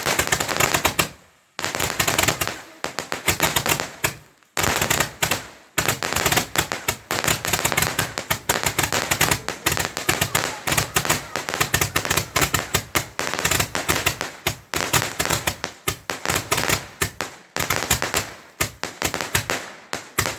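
Fireworks crackling: a dense run of sharp cracks and bangs in quick succession, broken by brief pauses about one, four and a half, and five and a half seconds in.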